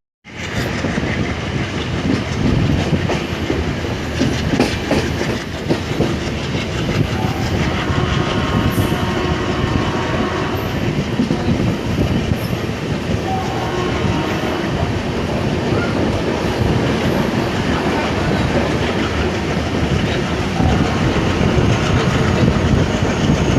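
Passenger train running on the track, wheels clattering over the rail joints with a steady rumble. The sound cuts in abruptly just after the start.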